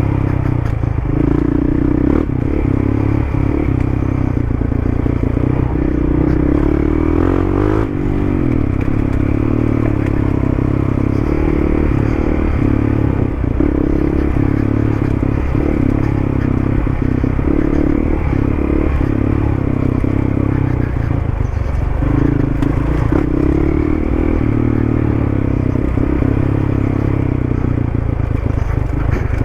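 Dual-sport motorcycle engine running steadily while riding, with a change in engine speed about eight seconds in. Frequent short knocks and rattles come from riding over rough ground.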